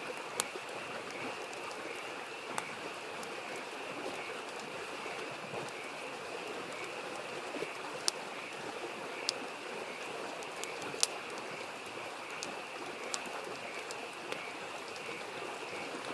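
Campfire crackling, with occasional sharp pops every few seconds, over the steady rush of a babbling stream and a continuous high-pitched chorus of frogs.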